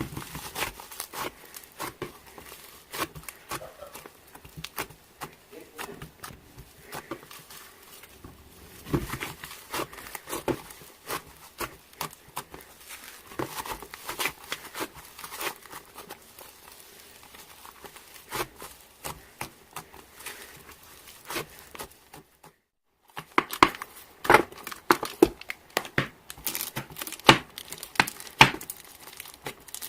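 Hands squishing, poking and stretching slime: a dense, irregular run of sticky clicks and crackling pops, with a short break about three-quarters through.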